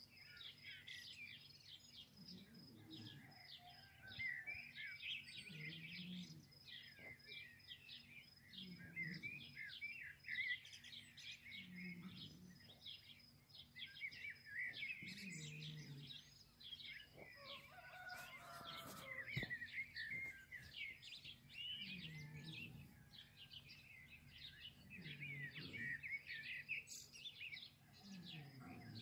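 Birds chirping and twittering continuously in quick, irregular calls, quiet, with a low note recurring about every three seconds.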